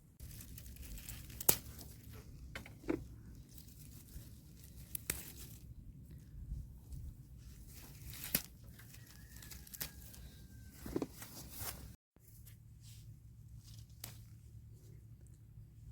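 Rustling and tearing sounds with scattered sharp clicks, over a low background rumble; a faint brief steady tone sounds about two-thirds of the way in.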